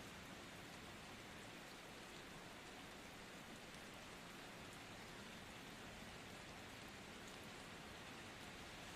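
Steady, soft rain: an even hiss with faint scattered drop ticks.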